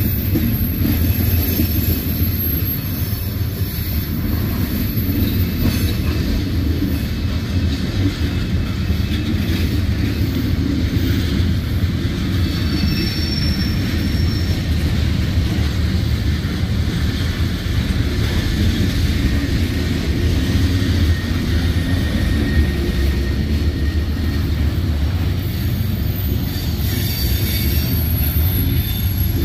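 Freight train cars rolling past close by: a steady, heavy rumble of steel wheels on rail, with a faint high wheel squeal briefly about halfway through.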